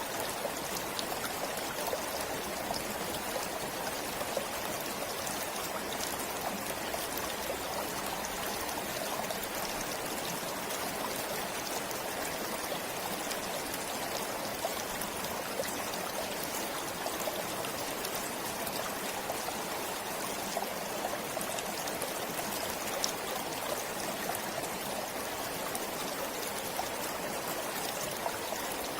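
A forest stream flowing steadily, water running and trickling in an even, unbroken wash.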